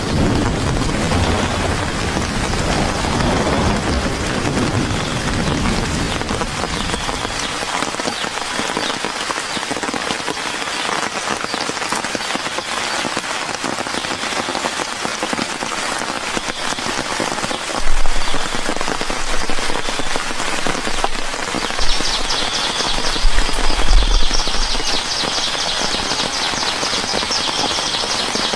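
Rain falling steadily, with a few low bumps about two-thirds of the way through. Near the end a high, fast-pulsing buzz joins in.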